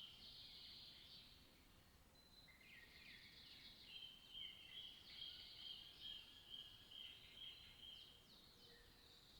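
Faint high-pitched animal calls, a chirping trill that pulses about two to three times a second through the middle, with a few short falling chirps before it.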